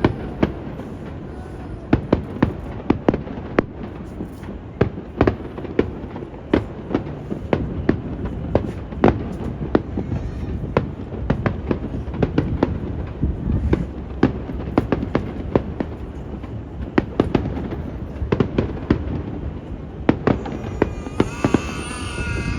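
Aerial fireworks bursting in quick succession, dozens of sharp bangs and crackles throughout, over a steady low rumble of wind on the microphone.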